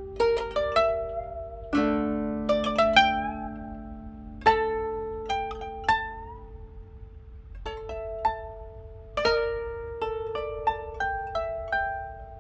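Two koto playing a duet: plucked notes that ring and fade, some low notes left to sound for a couple of seconds, a few notes wavering in pitch after the pluck.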